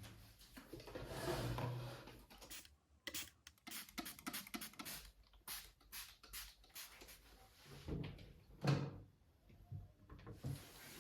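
Kitchen handling sounds: a quick run of light clicks and knocks, then a louder thump near the nine-second mark and two softer knocks after it.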